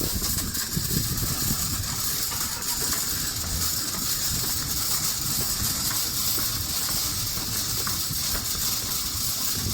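Metal shopping cart rattling steadily as it is pushed across a parking lot, with a constant hiss over it.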